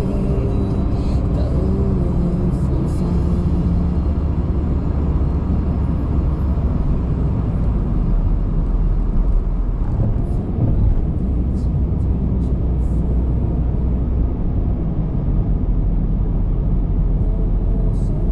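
Car driving on the road: a steady low rumble of tyre and road noise.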